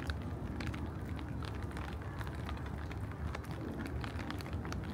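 Rain falling, with many separate drops clicking irregularly close by over a steady low rumble.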